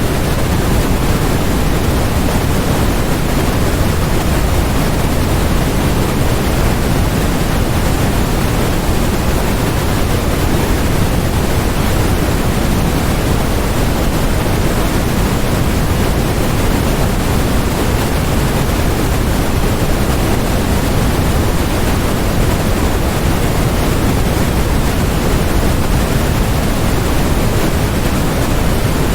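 Continuous generated noise of the white-noise kind: an even, unchanging hiss with more weight in the lows than the highs, close to pink noise.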